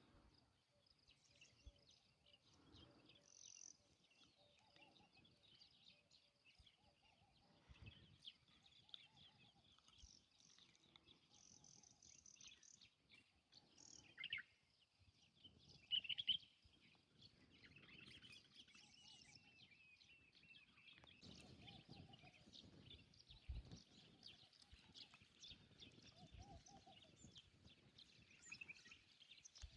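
Faint outdoor birdsong, many small birds chirping over a quiet background, with a couple of louder calls about halfway through.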